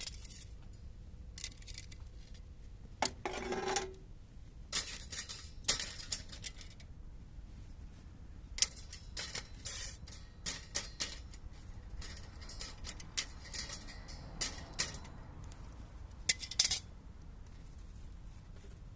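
Scattered clinks and clatters of handled utensils or cookware, with a short scrape about three seconds in and a couple of louder clacks near the end.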